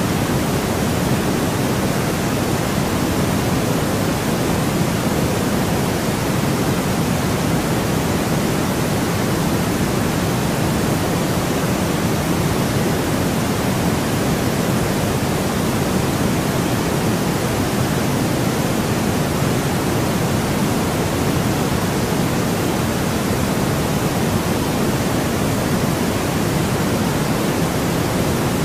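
Steady white noise sleep sound: an even, unbroken hiss at a constant level, with more weight in the lower range than the highs, so it sounds fuller and softer than a thin, bright hiss.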